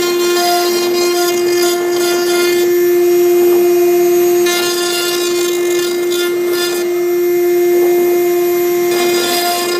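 6090 CNC router's spindle running with a steady high whine while a V-bit cuts into MDF. The scraping cutting noise over the whine changes every couple of seconds as the bit moves from stroke to stroke.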